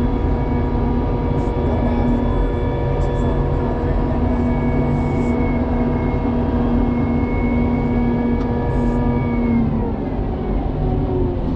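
Engine of snow-plowing equipment running steadily, its pitch falling about ten seconds in as it slows.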